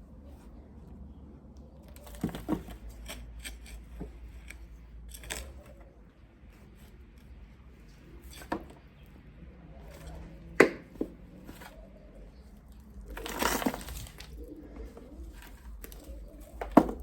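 Hand harvesting of potatoes from soil: scattered knocks and scrapes as soil is dug and potatoes are handled, with a sharp knock about ten seconds in, a longer rustling scrape a little later, and another sharp knock near the end.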